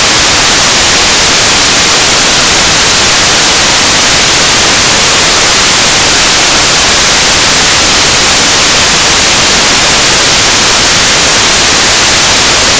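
Loud, steady static-like hiss, even and unbroken throughout.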